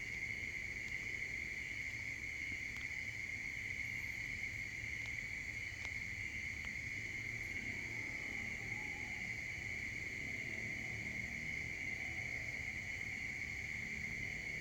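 A steady, unbroken high-pitched insect chorus, like crickets trilling, over a faint low rumble.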